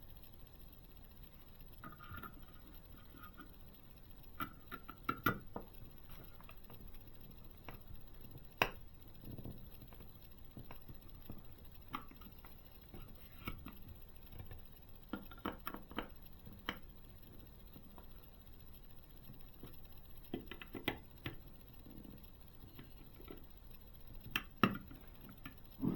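Small screwdriver driving tiny screws into a plastic model swingarm, with scattered faint clicks, taps and scratches as the screws and parts are handled, and a few sharper clicks in small clusters.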